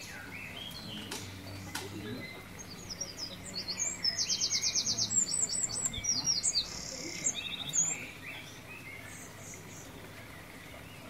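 Small birds chirping and singing, busiest in the middle, with a quick, evenly repeated high trill and several short high chirps over softer twittering.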